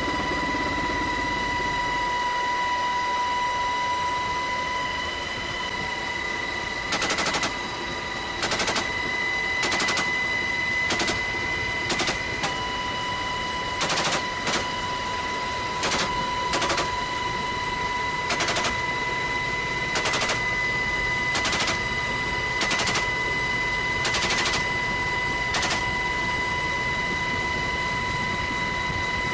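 Helicopter door-mounted .50-calibre machine gun firing a long series of short bursts, starting about seven seconds in, over the steady high whine of the helicopter.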